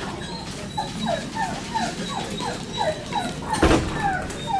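A dog whining in a run of short, falling whimpers, about three a second, starting about a second in. A brief knock or rustle sounds a little past the middle.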